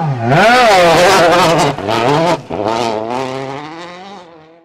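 Rally car engine revving hard, its pitch swinging up and down repeatedly as it works through the gears and corners, then fading away over the last couple of seconds.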